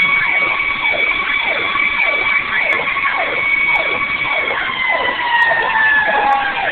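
Fire truck sirens sounding while the truck responds. A steady high siren tone dips in pitch about two-thirds of the way through, over a second siren cycling in fast falling sweeps about three times a second.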